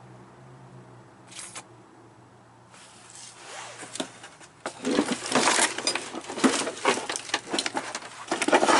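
Someone rummaging through a pile of loose metal parts, with irregular clinking and clattering that starts about halfway through and grows louder, likely while hunting for a tie rod end.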